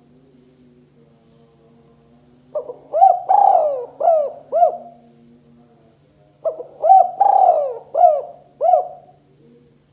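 Spotted dove (tekukur) cooing the 'kuk 2' call: two phrases about four seconds apart, each a quick run of five or six short arched coo notes.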